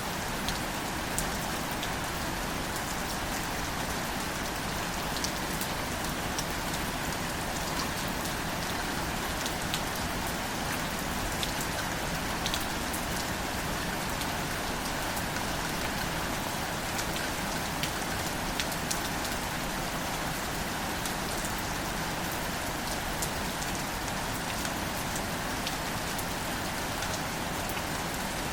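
Steady light rain falling on plants, an even hiss with many small distinct drop ticks scattered throughout.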